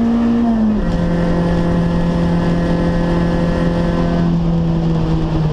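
Toyota Corolla AE92 race car's 1.6-litre four-cylinder engine, heard from inside the stripped cabin. The revs drop suddenly about a second in, then hold steady and ease lower near the end, over road and wind noise.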